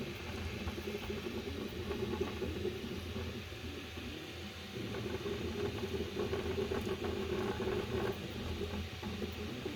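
FLSUN SuperRacer delta 3D printer in motion, its linear rail carriages giving a steady rattle, dipping slightly about four seconds in before picking up again.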